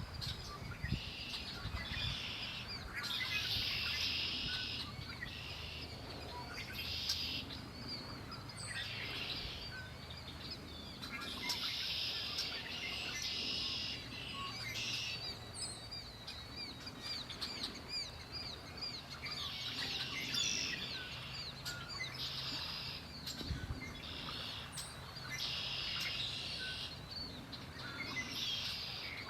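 Songbirds singing, several phrases about a second long following one another every second or two, over a faint steady low hum.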